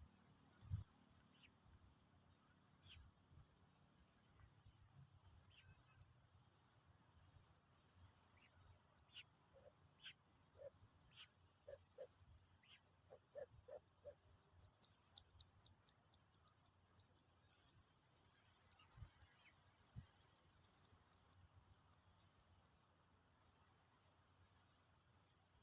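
Faint, rapid, high-pitched ticking, sparse at first and coming about four or five times a second from about halfway, with a few short low chirps in the middle.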